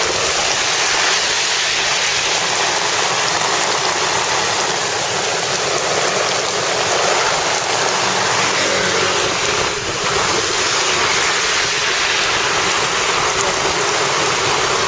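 Torrential rain falling on a road, with runoff water pouring out of drainage holes in porous asphalt pavement: a loud, steady, dense hiss.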